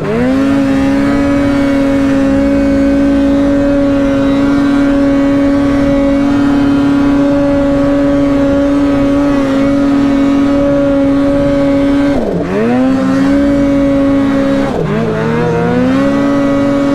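Polaris Boost turbocharged two-stroke snowmobile engine running at steady high revs under load, held level by the clutching, which the rider says he has just changed and is loving. Twice near the end the revs drop sharply off throttle and climb straight back.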